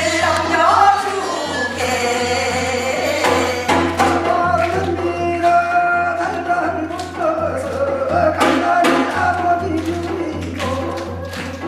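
Korean Gyeonggi-style hwimori japga, a fast folk narrative song, sung with a wavering ornamented voice line and accompanied by regular drum strokes.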